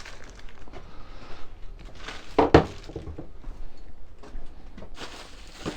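Small engine-kit parts being handled and set down: scattered light clicks and clinks with some rustling, and one louder clunk with a brief ring about two and a half seconds in.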